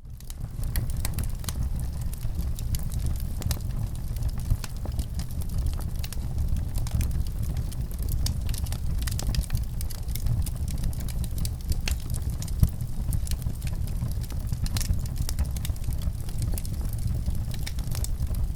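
Wood fire burning in a fireplace: a steady low rumble with frequent sharp crackles and pops, two of them louder, about four seconds in and again near thirteen seconds.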